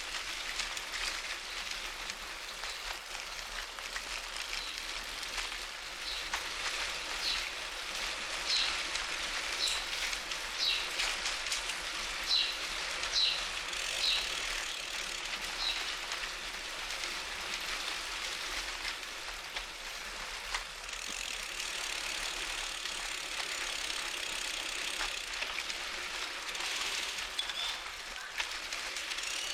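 A bicycle being ridden: a steady hiss of tyres and air with a light freewheel ratchet ticking. A run of short high chirps comes in from about a quarter to half way through.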